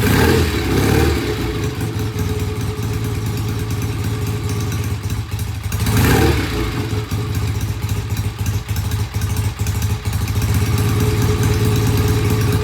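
Vintage BSA motorcycle engine running rough and uneven at idle, swelling briefly at the start and again about six seconds in. The uneven idle is a sign that it needs carburettor adjustment, with pilot jet cleaning and idle settings to be checked.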